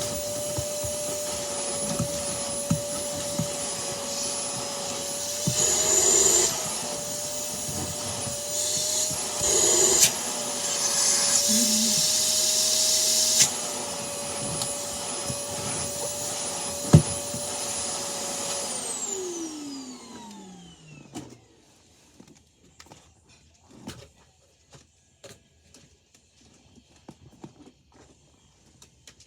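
Vacuum cleaner motor running with a steady high whine, growing louder for a few short stretches. About 19 seconds in it is switched off and the whine falls in pitch as the motor spins down, leaving only faint scattered clicks and knocks.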